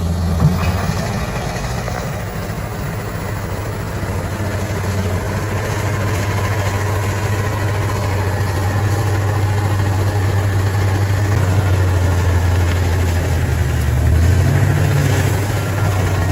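Bulldozer diesel engine running steadily with a low engine note. Its pitch shifts and rises briefly near the end.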